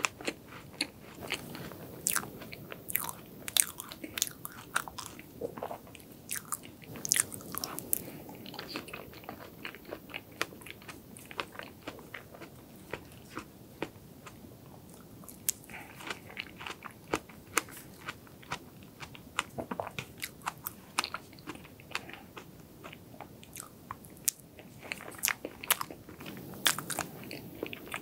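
Close-miked chewing of strawberry cream sponge cake, with many short, sharp wet mouth clicks at irregular intervals.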